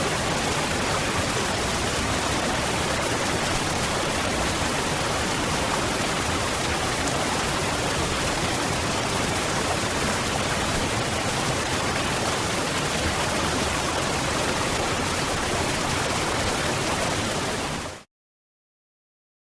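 Waterfall: a steady rush of falling water, with no changes in it, that fades out quickly near the end into complete silence.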